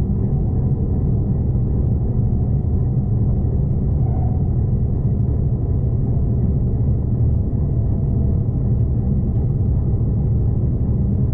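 V/Line passenger train running: a steady low rumble of wheels and running gear, unchanging throughout.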